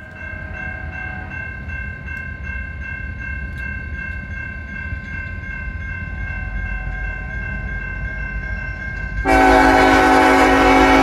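Diesel freight locomotive rumbling louder as it approaches, with steady high-pitched tones throughout. About nine seconds in, its air horn starts sounding loudly and is held to the end.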